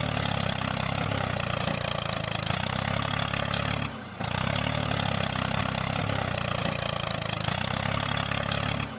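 Small 5cc two-cylinder four-stroke model gasoline engine running steadily, its sound dropping out briefly about four seconds in.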